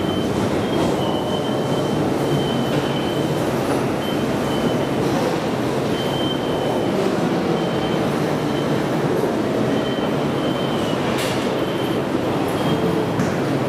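Keikyu 1500 series electric train pulling away slowly through curved trackwork, its running rumbling steadily while the steel wheels squeal on the curve in short, high, on-and-off whistles.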